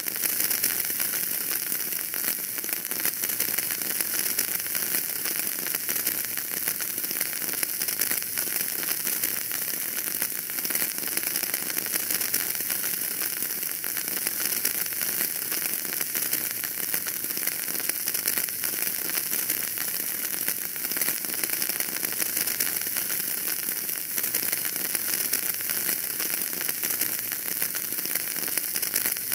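Wood fire burning in a fireplace, a steady dense crackle and hiss with many small pops.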